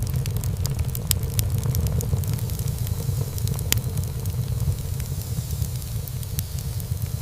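Wood fire burning in a fireplace, crackling and popping in many sharp irregular snaps, with one louder pop a little before halfway. A steady low rumble runs underneath.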